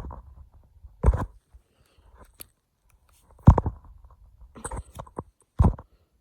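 A handful of short, irregular knocks or bumps with a dull thud, about five in all, with faint rustling between them.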